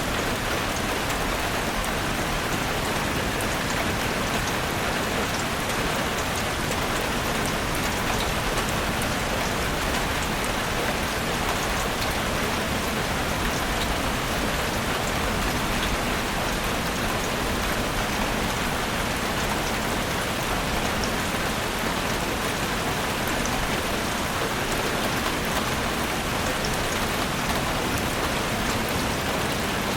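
Heavy rain falling steadily, an even wash of drops.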